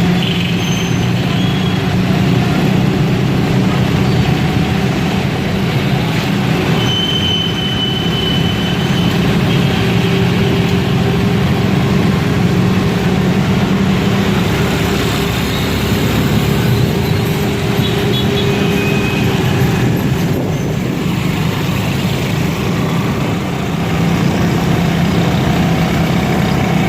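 Steady drone of a motor vehicle's engine and road noise, with a short high-pitched tone about seven seconds in.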